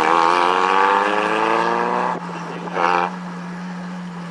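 Lamborghini Aventador V12 with Akrapovič exhausts being revved: one held rev, its pitch climbing slowly for about two seconds, then dropping off. A short blip of the throttle comes near three seconds in, after which the engine idles steadily.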